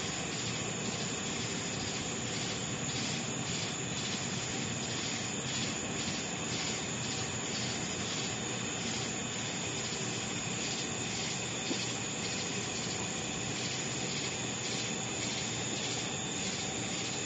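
Chorus of crickets: a steady high-pitched trill with a pulsing chirp repeating about twice a second.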